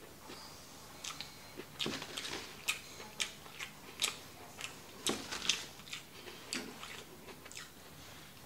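Close-miked chewing of a mouthful of kimchi fried rice: an irregular run of short, wet mouth clicks, roughly two a second.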